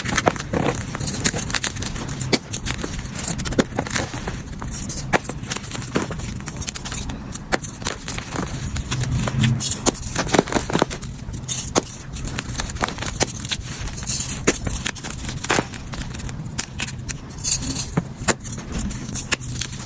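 Blocks of gym chalk being crushed and crumbled, a steady run of irregular crunchy crackles and small cracks with a powdery scrape.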